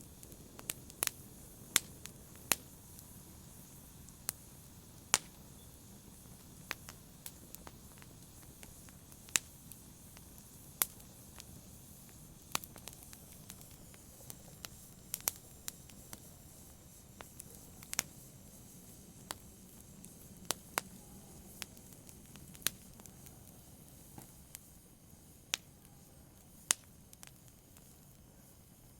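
Wood fire burning in a fireplace: a low steady hiss with sharp irregular crackles and pops, one or two a second, a few of them loud.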